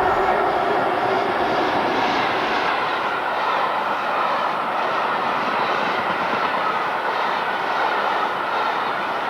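A train passing at speed: a steady, loud rush of wheel and rail noise.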